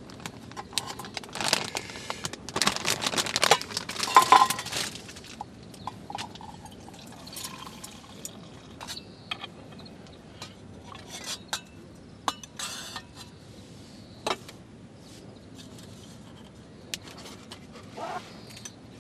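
Liquid poured into a cup or glass in the first few seconds, then scattered light clinks and taps of tableware.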